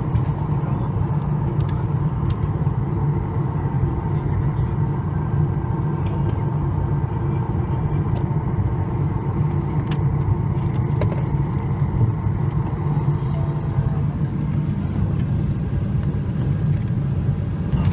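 Steady low hum inside the cabin of a Boeing 737 MAX 8, with a faint steady whine above it and a few light clicks.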